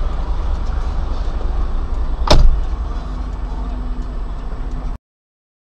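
Steady low engine rumble heard from inside a stopped car, with one loud sharp thump a little over two seconds in. The sound cuts off abruptly about five seconds in.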